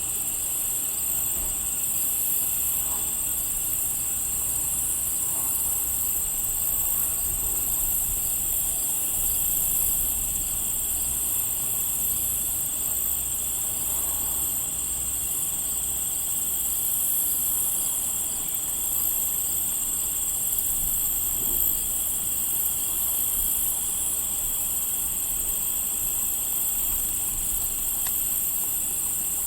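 Crickets chirping without pause, a steady high-pitched trill with a wavering layer above it.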